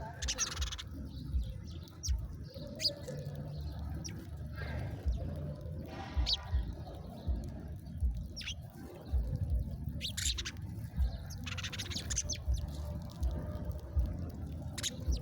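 Small songbirds chirping in short, scattered calls, a few of them longer, over frequent irregular low thuds.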